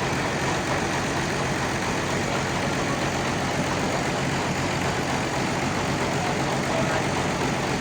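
Sawmill engine running steadily, a continuous drone with a fast low pulse.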